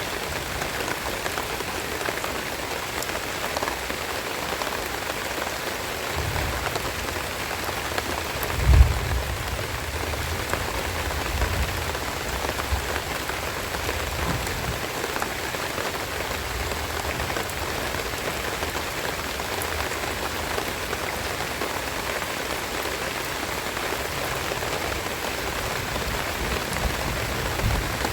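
Steady rain falling, an even hiss of drops hitting surfaces. A few low dull bumps come between about six and fifteen seconds in, the strongest near nine seconds.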